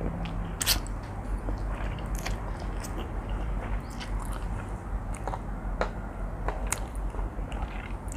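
A person chewing and biting a mouthful of spicy seafood instant noodles, with irregular wet clicks and small crunches.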